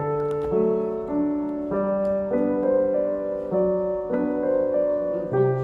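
Background music: a slow, gentle piano melody with held chords changing about every half second to second.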